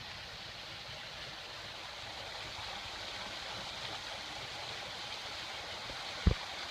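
Steady rushing of a waterfall and stream, with one brief low thump near the end.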